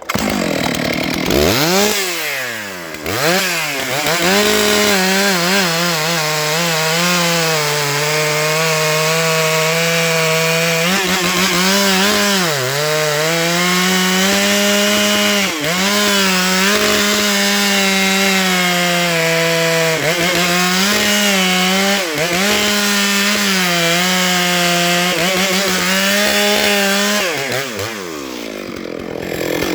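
Stihl MS 661 two-stroke chainsaw revving up and then cutting through a pine log at full throttle, its engine note holding steady under load with brief dips several times. The revs drop back near the end.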